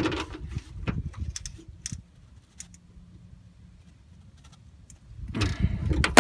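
Small clicks and knocks of hands working a metal pipe clamp and silencer for about two seconds, then a near-quiet stretch, then a rustling handling noise near the end.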